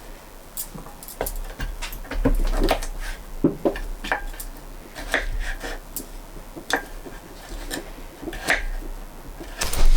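Kitchen knife cutting zucchini into small dice: irregular sharp knocks, roughly two a second.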